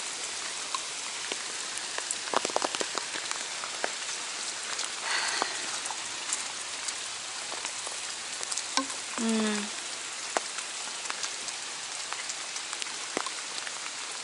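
Steady heavy rain falling, a continuous hiss dotted with sharp ticks of individual drops. Two short pitched sounds stand out over it, about five seconds in and again about nine seconds in.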